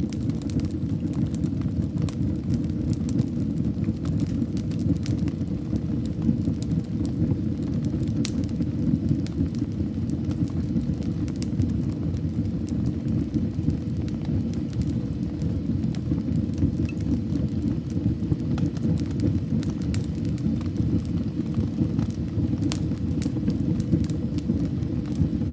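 Fire burning in a fireplace: a steady low rush of flames with scattered small crackles and pops throughout.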